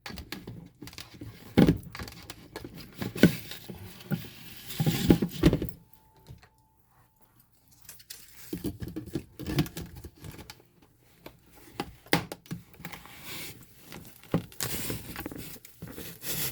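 Plastic packaging of disinfectant wipes being handled and opened: crinkling and tearing, with scattered knocks and clicks. There is a pause of a couple of seconds about six seconds in.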